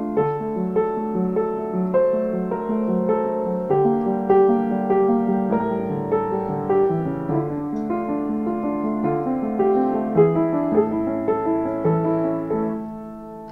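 Piano music playing a steady stream of notes, growing softer near the end.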